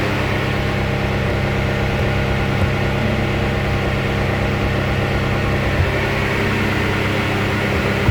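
Car engine running at a steady, unchanging speed, held without revving.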